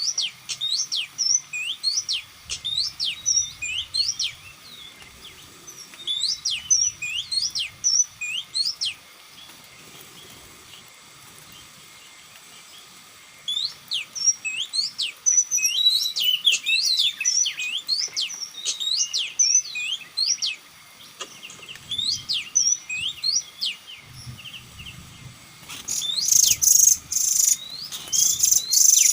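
A small bird chirping in quick runs of sharp rising notes, with short pauses between the runs. Near the end there are a few seconds of harsh, scratchy noise.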